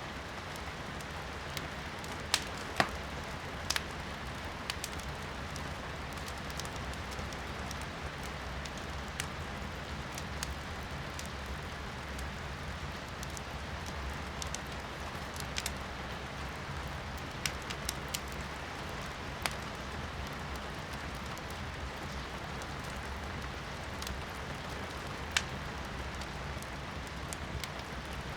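Wood fire in a fireplace crackling, with sharp irregular pops every second or few, a few of them much louder, over a steady hiss of rain heard from indoors.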